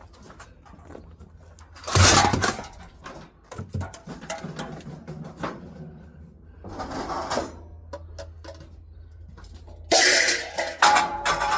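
Scrap metal being handled: a loud clatter about two seconds in and a run of metallic clanks with ringing near the end, over a steady low hum.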